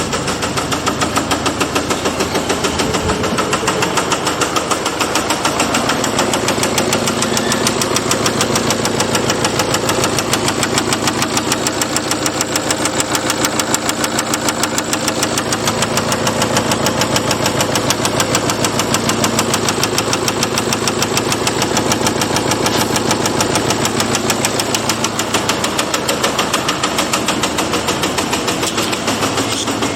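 MINI Cooper D Crossover ALL4 (R60) engine idling steadily with an even, rapid clatter.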